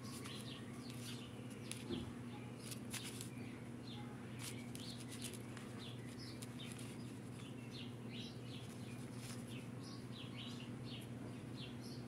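Small birds chirping in the background, many short repeated chirps, over a steady low hum. A few light clicks, the clearest about two seconds in.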